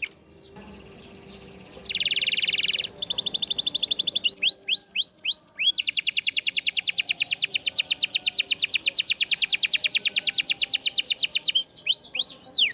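Domestic canary singing a varied song. It runs through strings of quick, repeated falling whistled notes and a short buzzy trill, then a long rapid rolling trill lasting about five seconds, and ends with falling notes again.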